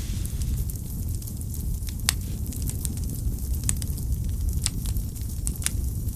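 Wood fire burning in a fireplace: a steady low rumble of flames with scattered sharp crackles and pops, the loudest pop about two seconds in.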